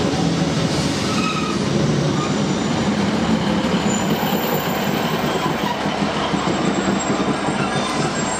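Passenger train moving close by along a station platform: a steady rumble of wheels on rails, with faint squealing from the wheels.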